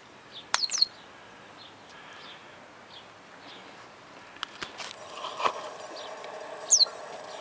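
Squeaky toy mice for cats giving short, high squeaks that drop quickly in pitch: a pair about half a second in and another near the end. A few sharp clicks come between them.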